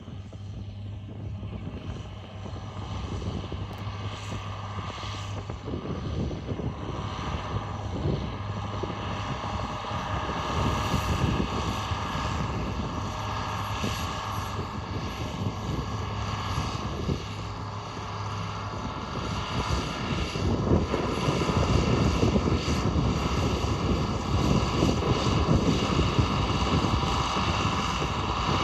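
John Deere 4955 tractor's six-cylinder diesel engine running steadily under load in the field, growing louder about two-thirds of the way through.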